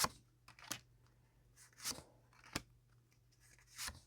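Tarot cards being handled: a handful of short, sharp snaps and slides, about one a second, as a card is drawn from the deck and laid out.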